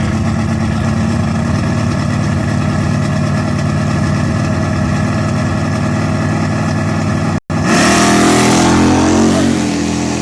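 Car engine running steadily at idle, then, after a brief dropout, a louder engine revving hard as a car accelerates, its pitch shifting for a couple of seconds before easing off.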